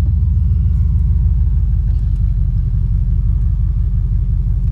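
Vehicle engine running steadily at low speed, a constant low rumble.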